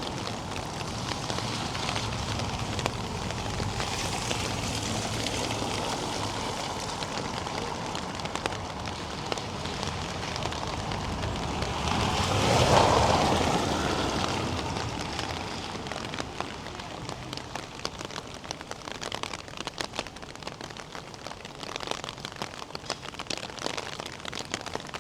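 Steady rain falling and splashing on hard surfaces. About halfway through a louder rushing sound swells and fades over a few seconds, and in the later part scattered drips and ticks stand out.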